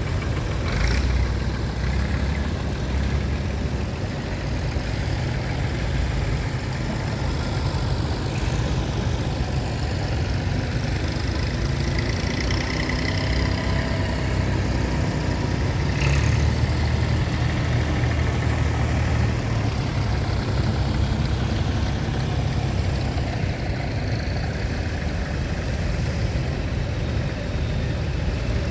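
Tractor engines running steadily with a low, continuous drone, broken by two brief sharp clicks, one about a second in and one around the middle.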